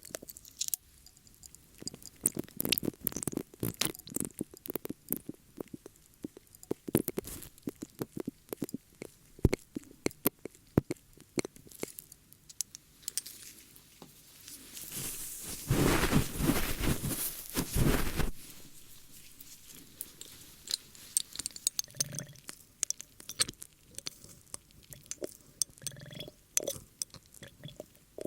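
Close-up ASMR ear-cleaning sounds: irregular crackles, clicks and scratches. About halfway through, a louder, dense rustle lasts for about three seconds.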